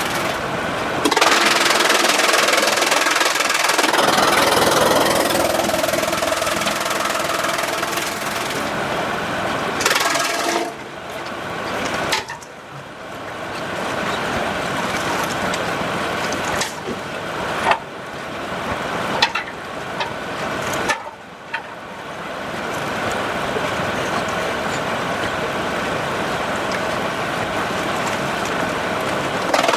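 Sawmill machinery running, with a steady mechanical drone. Several sharp knocks come in the middle stretch, and the noise dips briefly twice.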